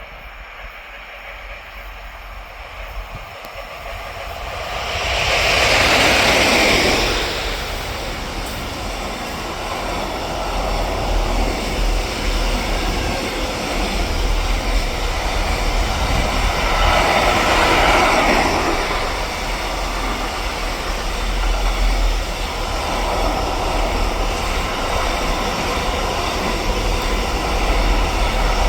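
A train passing: it grows loud as it draws near, about six seconds in, then a long steady rolling of wheels on rail follows, swelling now and then as the cars go by.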